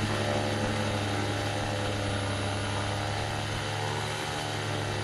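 Paramotor's Black Devil Corsair M25Y 172 single-cylinder two-stroke engine with a Vortexaero exhaust pipe, running steadily in flight with its propeller at a constant throttle: an even, unchanging drone.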